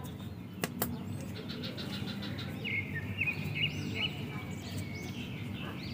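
Birds chirping in short repeated calls from about three seconds in. A single click of the plastic toy or packaging being handled comes about a second in.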